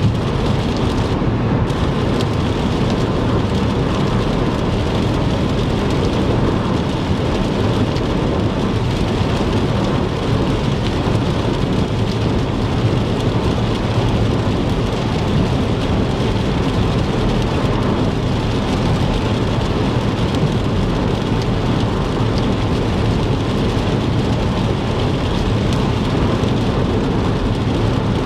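Heavy rain falling on a car driving along a wet interstate, with the steady hiss and low rumble of tyres and road noise.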